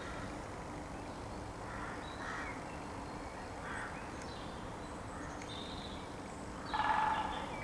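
A bird calling: a few faint short calls, then a louder harsh call near the end.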